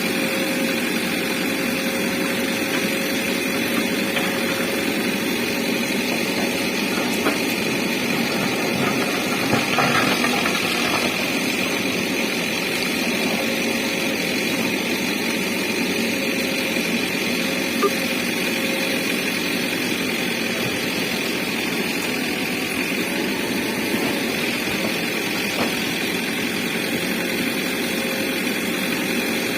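JCB backhoe loader's diesel engine running steadily while it works, with a couple of brief knocks partway through.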